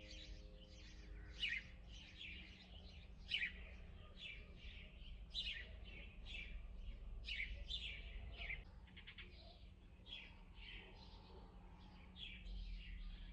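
Several small songbirds chirping and twittering in a continuous chorus of quick, high, short calls.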